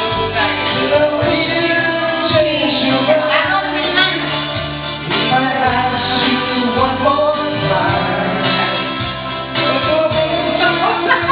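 A singer sings a song with instrumental accompaniment.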